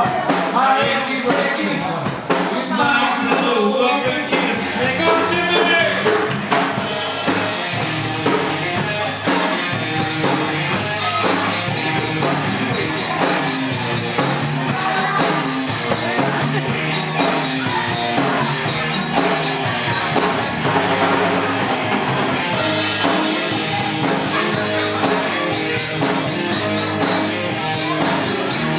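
A band playing rock music, with singing in the first few seconds that then gives way to a mostly instrumental stretch.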